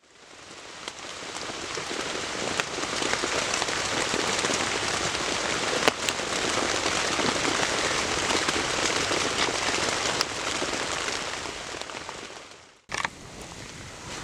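Heavy rain pelting a bushcraft tent's fabric in a dense, steady patter, with a few sharper drop hits. It fades in and cuts off suddenly about 13 seconds in, followed by a brief noise and a much quieter background.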